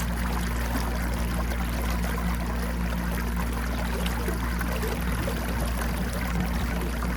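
Small boat under way on an electric trolling motor: a steady low motor hum under the rush and trickle of water along the hull.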